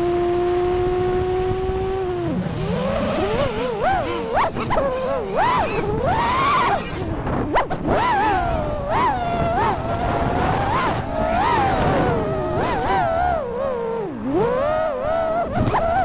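FPV quadcopter motors and propellers humming at a steady pitch. After about two seconds the pitch starts swooping rapidly up and down as the throttle is punched and chopped through manoeuvres.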